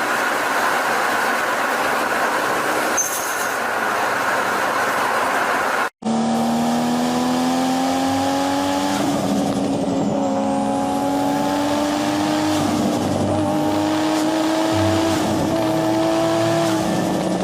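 Sports car engine running hard at high revs. About six seconds in the sound cuts to a different clip: a clear, high engine note that climbs slowly, with a few brief dips in pitch.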